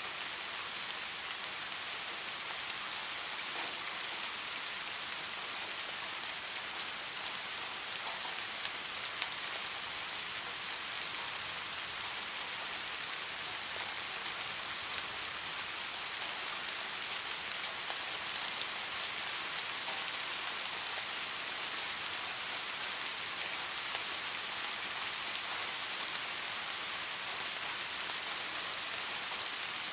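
Steady rain falling, an even hiss with the fine patter of drops on a surface.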